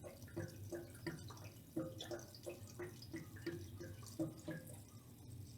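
Fuel glugging as it is poured into a Kubota tractor's fuel tank: a faint, regular glug-glug, about three a second, fading out a little before the end.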